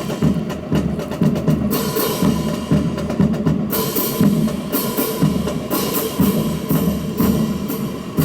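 Rhythmic percussion with a steady drum beat and sharp wooden-sounding clacks, about two strikes a second.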